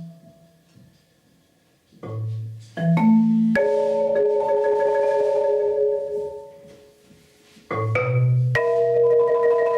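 Solo marimba: after about two seconds of near silence, a few quick struck low notes lead into ringing chords that slowly fade, and near the end another group of strikes opens a new sustained chord.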